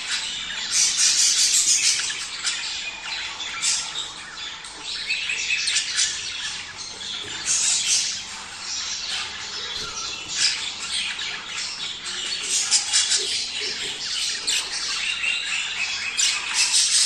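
A flock of budgerigars chattering, with dense overlapping warbles, chirps and squawks, the kind of calling played to pet budgies to stimulate breeding.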